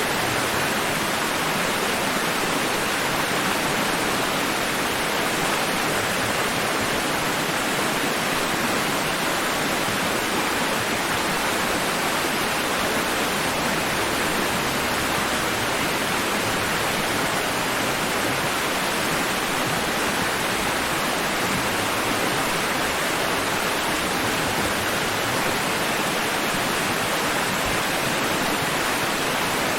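Steady rush of water, an even hiss and roar that holds the same level throughout, with no separate waves rising or breaking out of it.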